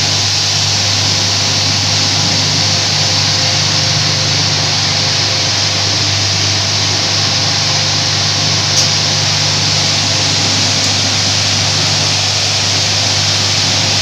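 Carpet-washing machinery running with a steady hum and hiss, with one short click about nine seconds in.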